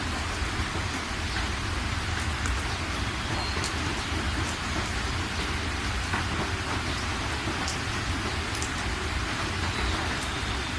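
Steady rain falling, with scattered sharper drips over the even hiss and a steady low rumble underneath.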